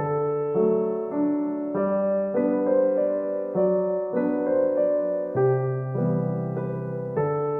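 Background music: a gentle solo piano piece, soft chords changing every second or so.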